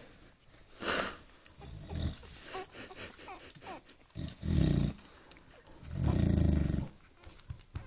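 Newborn bulldog puppies grunting and growling in their sleep, with faint little squeaks. Two longer low growling grunts come about halfway through and again about three-quarters of the way in.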